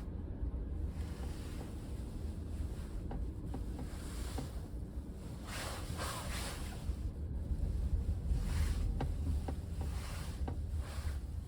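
Steady low rumble of road and tyre noise heard inside a moving car's cabin, with a brief swell of hiss about halfway through and a few faint ticks.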